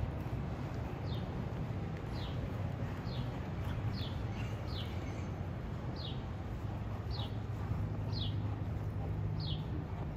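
A bird calling a short, sharp chirp that slides downward in pitch, repeated about once a second, over a steady low hum.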